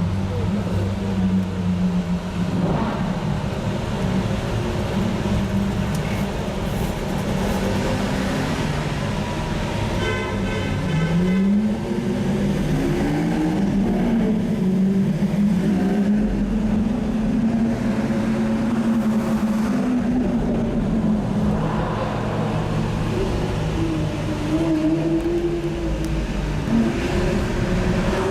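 A sports car's engine running with a low, steady note. About a third of the way in it revs up, and its pitch then rises and falls repeatedly as it pulls away and changes speed, climbing again near the end.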